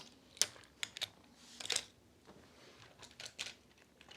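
Light clicks and clatters of die-cast toy cars being handled and slotted into a plastic toy car-transporter truck. There are a handful of sharp taps with small rattles between them.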